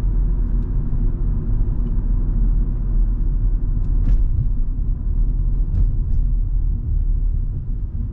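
Cabin noise of a Volvo V70 2.5T on the move: the turbocharged five-cylinder engine running steadily under a low road rumble. A couple of faint clicks come about four and six seconds in.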